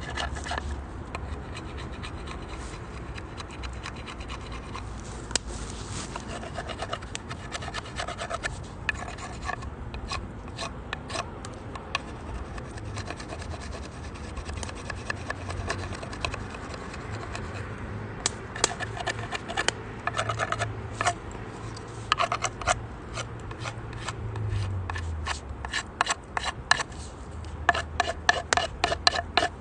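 Firewood burning in a compact steel wood stove, crackling with many sharp pops that come thicker in the second half, over a low steady rumble.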